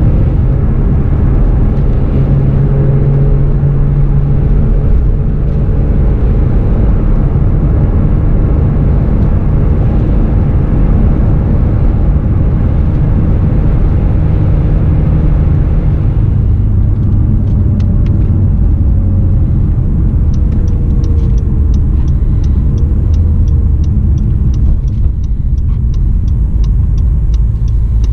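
2017 Acura NSX's twin-turbo V6 heard from inside the cabin while driving, with steady road noise under it. About two-thirds through, the engine note drops lower and eases off as the car slows, and near the end a run of quick, even ticks joins in.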